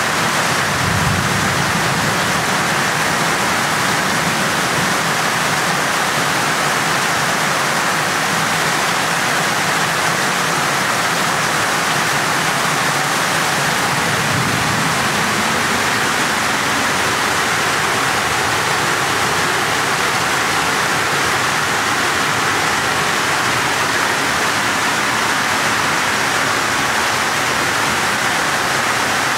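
Torrential rain pouring down in a steady, loud hiss, with floodwater running across the ground. Brief low rumbles come about a second in and again around halfway.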